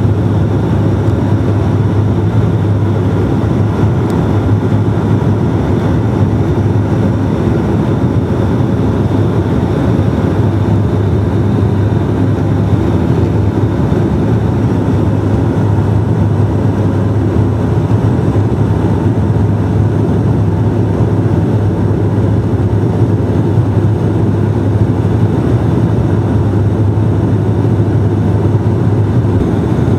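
Bombardier Dash-8 turboprop cabin noise: a steady propeller drone with a constant low hum, unchanging throughout.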